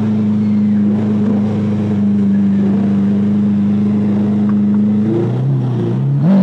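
A supercar engine holding steady revs with an even, loud drone; about five seconds in the revs drop and then rise and fall in quick blips.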